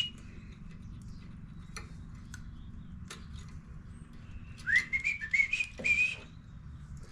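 A short phrase of five or six quick rising whistled notes, lasting about a second and a half, near the end. A few sharp clicks come earlier, over a low steady hum.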